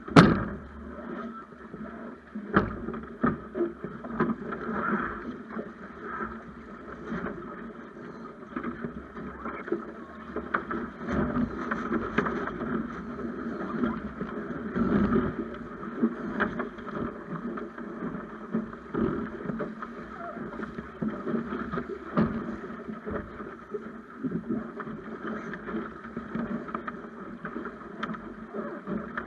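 Water splashing and rushing along the hull of a Snipe sailing dinghy under sail, with wind buffeting the microphone and scattered small knocks. A sharp knock right at the start is the loudest moment.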